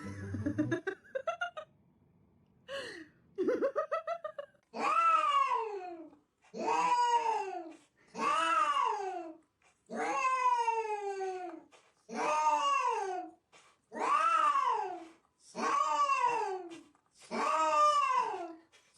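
A cat yowling over and over: about eight long drawn-out calls, each rising then falling in pitch, coming about every two seconds after a few short sounds at the start.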